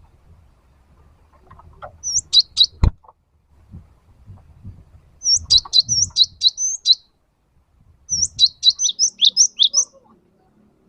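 Cinereous tit (gelatik batu) singing in three bursts of rapid, high, repeated notes, each lasting one to two seconds with short pauses between. A sharp click cuts through near the end of the first burst.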